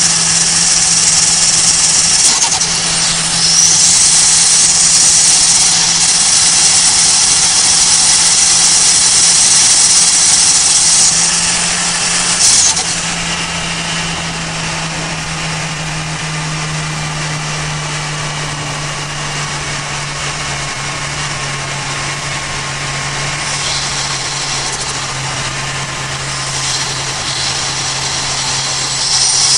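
Turbocharged 1.5-litre Toyota Avanza Veloz engine heard from inside the cabin at about 170 km/h: a steady engine drone under a loud, high turbo whine and hiss. About twelve seconds in, the throttle is lifted, there is a short rush of noise, and the sound drops. The drone then sinks slowly in pitch as the car slows, and it rises again near the end as the throttle is reopened.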